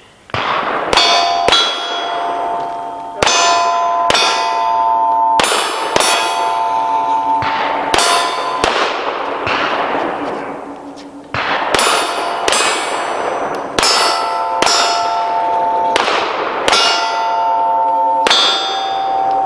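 Pistol shots fired in quick succession at steel plate targets, each shot followed by the ring of the struck steel plate. It goes as two strings of about ten shots each, with a pause of a couple of seconds around the middle.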